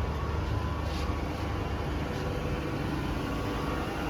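Grisetti RU 2000 hydraulic cylindrical grinding machine running with a steady low hum and a faint steady whine, which the seller describes as smooth, with no noise from the motor, gearbox or work head.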